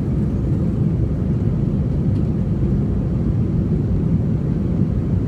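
Airliner's jet engines and rushing air, a steady low rumble with no change, as the plane climbs after takeoff.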